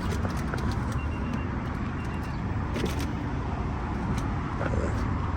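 Steady motor-vehicle rumble, with a few faint clicks and two short faint beeps about a second apart.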